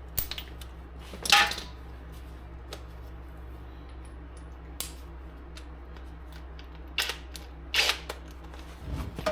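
Metal hand tools clinking and clanking as a socket and extension are handled and fitted to a bolt, a few separate sharp knocks with the loudest about a second and a half in. A steady low hum runs underneath.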